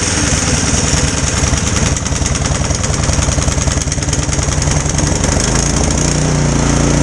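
Troy-Bilt snowblower's single-cylinder engine running on full choke just after a cold start, rough and uneven at first, then settling into a smoother, steady run about five and a half seconds in. It runs strongly after a fresh oil change and tune-up.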